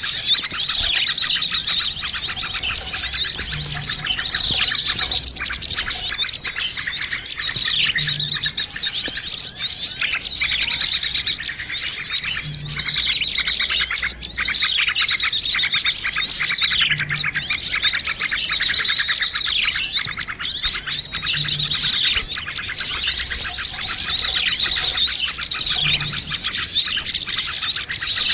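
A dense, continuous chorus of many small songbirds chirping and trilling rapidly over one another: a bird-lure (pikat) mix of noisy small birds. A faint short low hoot repeats about every four and a half seconds underneath.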